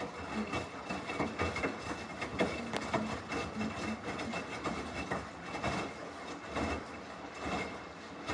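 Samsung front-loading washing machine tumbling a load mid-cycle: the drum turns with a steady hum while the wet laundry drops and knocks in an irregular clatter.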